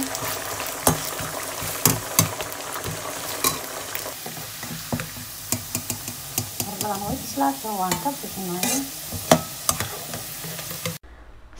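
Carrot sticks frying in hot oil in a wok, with a steady sizzle. A slotted metal spatula stirs and scrapes them, clicking against the pan about once a second. The sound stops abruptly near the end.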